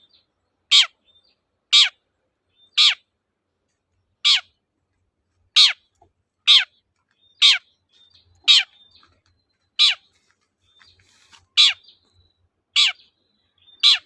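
Long-tailed shrike (cendet) giving a series of short, harsh calls, each sweeping steeply downward, repeated roughly once a second, about a dozen in all, with faint short notes between them.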